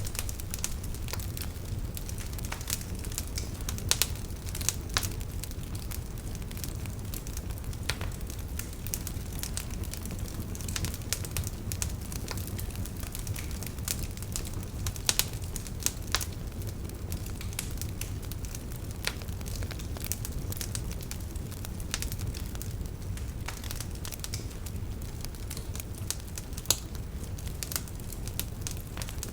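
Wood campfire crackling, with irregular sharp pops and snaps and a few louder ones, over a steady low rush of flowing river water.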